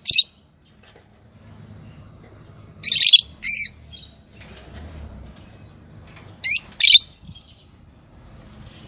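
Pet lovebirds giving short, shrill chirping calls: one at the start, then two pairs, about three seconds in and again near seven seconds.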